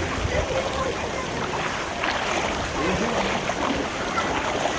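Floodwater on a street rushing and splashing steadily, with faint voices of people in the distance.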